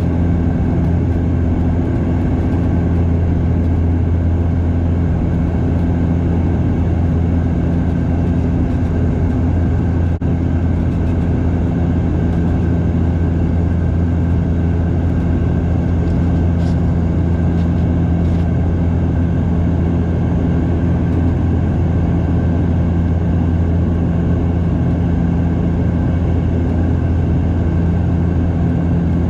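Cabin drone of a Bombardier DHC8-Q400 turboprop in flight: its engines and propellers running steadily, a deep hum under a constant rush of air noise.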